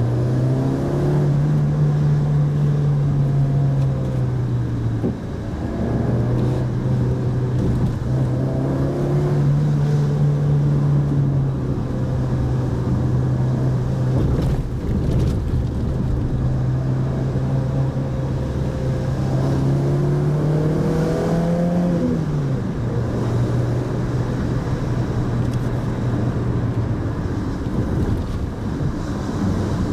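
Mitsubishi Pajero Mini's engine running while driving, heard from the car, over steady road and tyre noise. The engine note holds fairly steady, dips about five seconds in, and drops again a little past twenty seconds.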